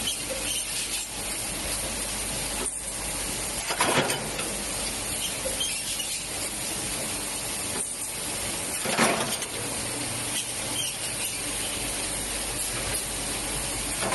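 Machinery in a glass-lid production line running with a steady noise, cut by a short loud burst about every five seconds, three times.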